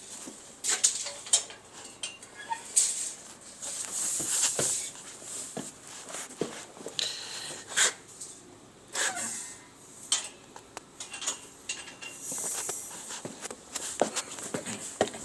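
Irregular metallic clinks and taps from metalwork on steel balustrades, with a few short bursts of hiss.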